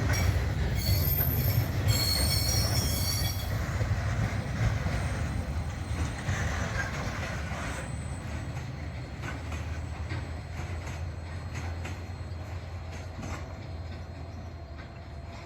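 Train passing on the rails: a low rumble with high wheel squeal for the first three or four seconds, then the rumble gradually fades.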